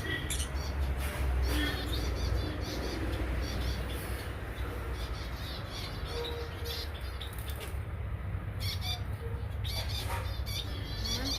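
Small aviary birds chirping and squawking in many short, scattered calls, over a steady low rumble.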